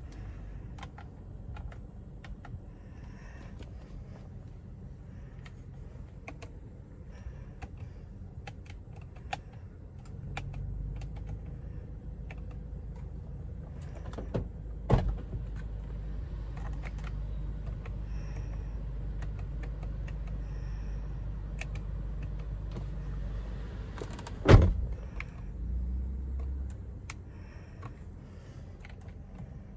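Sounds inside a car cabin: a steady low hum that grows louder for about fourteen seconds in the middle, with scattered small clicks and two sharp knocks, the second the louder.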